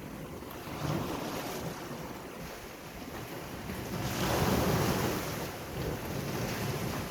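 Sea waves washing onto the shore, one wave swelling up and breaking about four seconds in, then easing off. Wind buffets the microphone, adding a low rumble.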